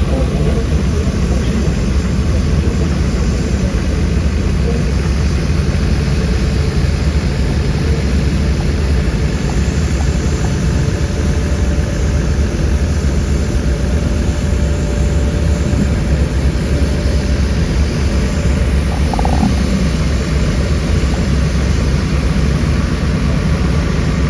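Diesel engines of heavy construction machines running steadily, the sound mostly deep and unbroken.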